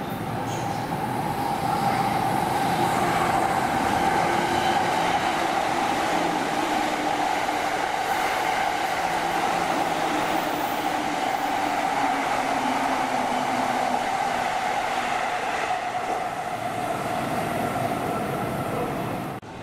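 Electric passenger train running past on the rails, a steady high tone over the rail noise that builds over the first two seconds and holds steady, then cuts off abruptly near the end.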